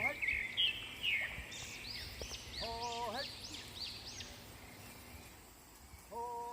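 Birds calling: a quick series of short, high chirps through the first few seconds, and a lower, clear call that turns upward at its end, heard about three seconds in and again near the end.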